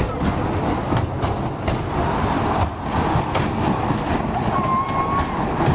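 Small tourist train running, a steady rumble and rattle with scattered clicks and a short squeal about four and a half seconds in.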